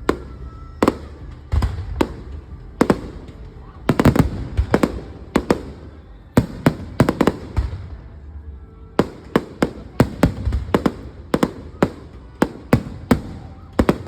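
Fireworks exploding in a rapid, irregular series of sharp bangs over a low rumble. They come in dense clusters about four seconds in and again from about nine seconds on, with a thinner spell between.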